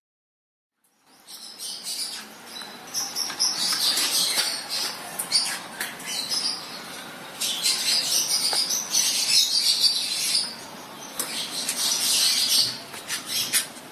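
Lovebirds chattering: a dense, continuous run of shrill chirps and squeaks that starts about a second in, after a moment of silence.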